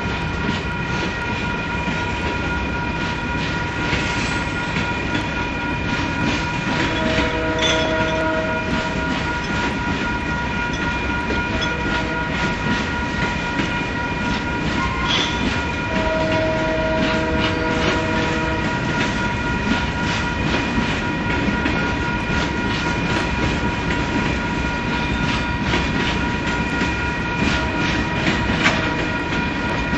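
Loaded hopper cars of a Union Pacific rock train rolling slowly past a grade crossing, wheels clicking over the rail joints, while the crossing bell rings without a break. A train horn sounds twice, about eight seconds in and again about sixteen seconds in.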